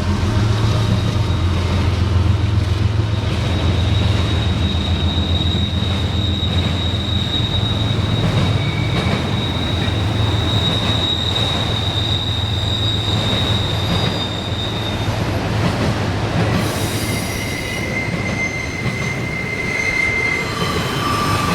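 CSX freight train rolling past: the diesel locomotives' low drone fades about three-quarters of the way through as the freight cars keep rumbling by, while steel wheels squeal against the rail in long, high, steady tones.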